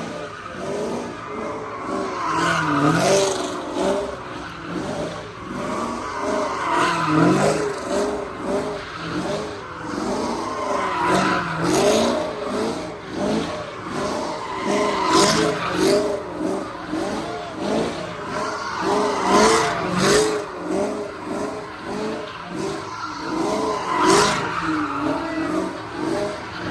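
Car doing donuts: the engine revs up and down over and over as the tyres squeal, growing louder about every four seconds as the car swings past.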